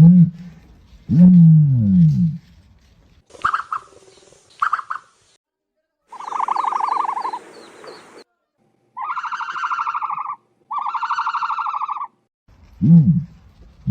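Ostrich calling: two low, falling calls at the start. These are followed by higher calls of a different kind: two short ones, then a call lasting about two seconds, then two pulsing calls near the end.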